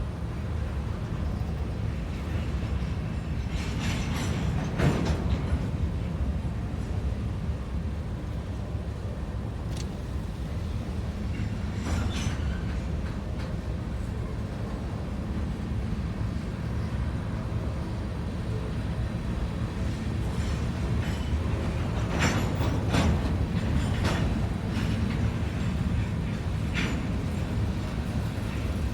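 Hopper cars of a long CSX freight train rolling past with a steady low rumble. A few sharper clanks or squeals rise above it at intervals.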